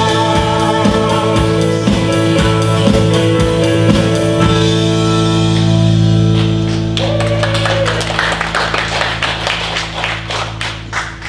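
Worship band music: a song closes over a steady drum beat that stops about four seconds in, leaving a held chord. Quick strumming then fades out toward the end.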